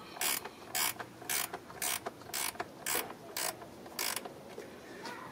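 Ratchet wrench backing out a bolt: its pawl clicks in short bursts about twice a second as the handle is swung back and forth, stopping about four seconds in.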